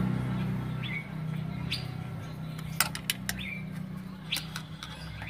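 Small birds giving short, repeated chirps over a steady low hum, with a few sharp clicks about three seconds in.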